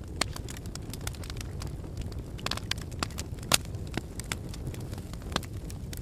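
Wood fire burning in a fireplace: a steady low rumble of flames with irregular crackles and pops, the sharpest snap about three and a half seconds in.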